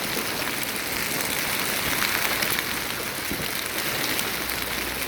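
Hailstorm pelting down hard: a dense steady hiss of falling hail with many small sharp ticks of marble-sized stones striking hard surfaces.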